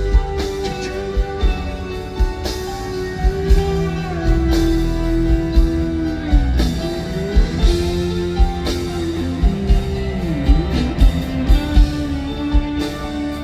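Live rock band playing a slow ballad: an electric guitar holds long notes that slide down in pitch twice, over bass and steady drum beats.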